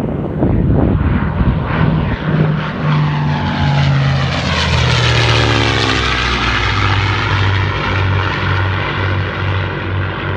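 Propeller airplanes flying past in formation. The engine drone drops in pitch about halfway through as they pass, then settles into a low drone that throbs a little under twice a second.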